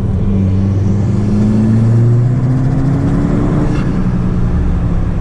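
Audi S3 8P's tuned turbocharged 2.0 TFSI four-cylinder, fitted with a downpipe, pulling under acceleration. Its note rises slowly for about four seconds, then drops as the driver eases off.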